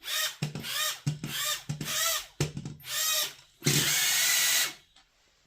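Small electric motor whirring in short bursts, each spinning up and down in pitch, then held for about a second near the end.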